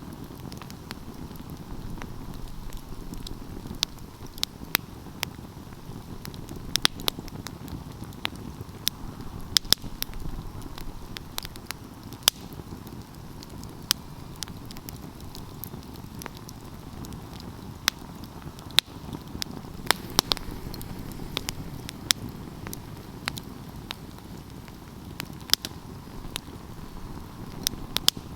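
Wood fire burning with a steady low rush of flame and frequent irregular crackles and sharp pops of the burning logs.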